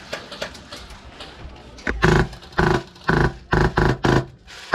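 Short full-auto bursts from a Polarstar HPA-powered airsoft M249 light machine gun, each a buzzing rattle of rapid shots. Six bursts come in quick succession from about two seconds in, after a stretch of faint scattered clicks.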